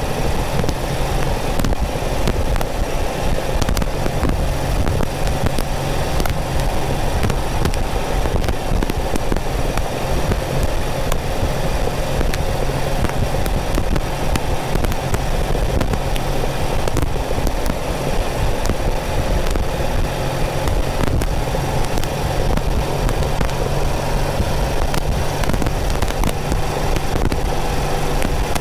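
Porsche 914's 2.0-litre air-cooled flat-four running steadily on the road, with frequent crackling static clicks over it.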